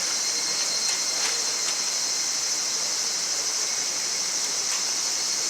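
A chorus of insects, such as crickets, keeps up a steady high-pitched trill. A few faint crackles from the wood fire come through about a second in and again near the end.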